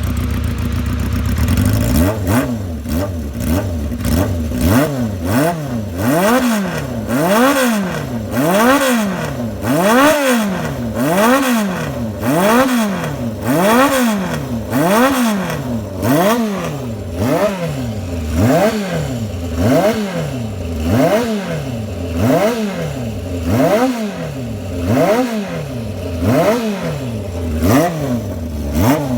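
Honda CB350 Four's inline four-cylinder engine through a 4-into-1 exhaust, running cold: a steady idle for about two seconds, then blipped over and over, about once a second, the exhaust note rising and falling each time.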